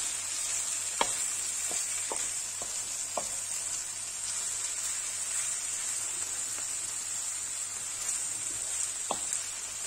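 Saç kavurma (diced beef with onions, green peppers and tomato) sizzling steadily as it fries in its own fat in a wide pan. A wooden spatula knocks lightly against the pan several times in the first few seconds and once more near the end.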